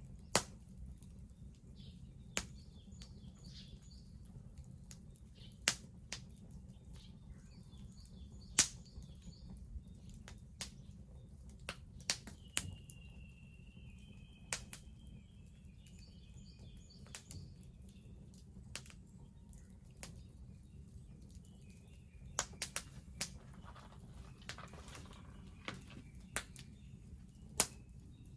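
Wood bonfire crackling, with irregular sharp pops and snaps over a steady low rumble. Small birds chirp faintly now and then in the background.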